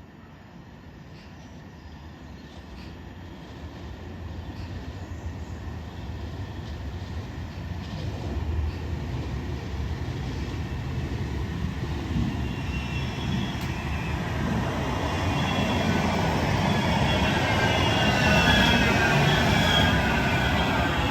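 Tram approaching, a low rumble of wheels on rails growing steadily louder. Over the last several seconds several high whines fall in pitch.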